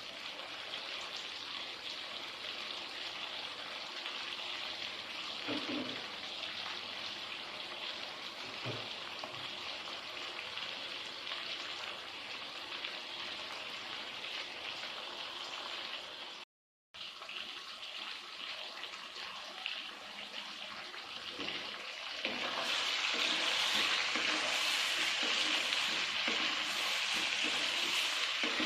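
Chicken teriyaki sizzling in a frying pan, a steady hiss that cuts out for a moment past the middle and grows louder near the end.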